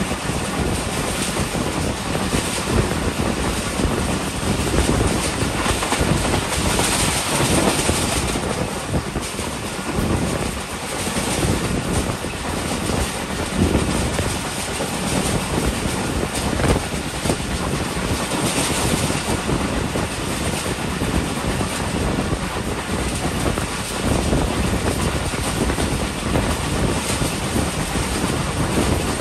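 Passenger train running at speed, heard from on board: a steady rumble and rush of steel wheels on the rails, with occasional sharp clicks over rail joints. The train crosses two short railway bridges in the first few seconds.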